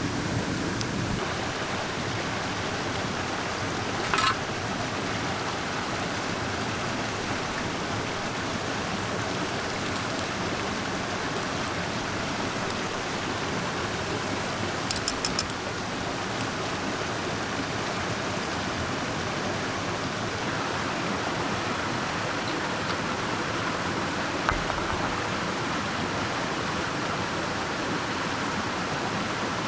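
Mountain stream rushing steadily, with a single sharp click about four seconds in and a quick run of four clicks about fifteen seconds in.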